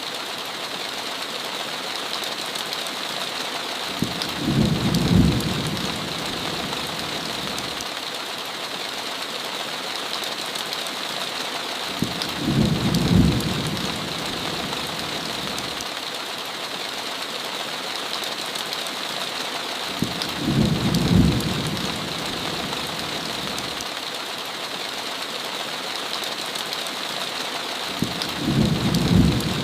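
Steady heavy rain on a window, with a short low rumble of thunder four times, about every eight seconds.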